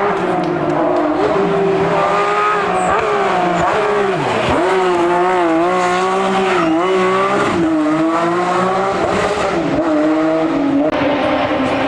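Race car engine held at high revs, its pitch wavering up and down, with two sharp dips about four and a half and nine seconds in as the driver lifts or changes gear.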